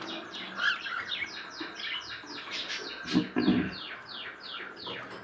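Cage birds chirping in a breeding room: a rapid run of short downward-sweeping chirps, about three or four a second. A brief, louder low sound comes a little after three seconds in.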